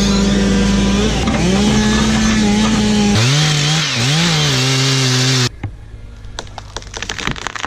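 Chainsaw running hard, its engine pitch dropping and wavering under load as it cuts into the ash wood, then cutting off abruptly about five and a half seconds in. A run of sharp cracks and clicks follows.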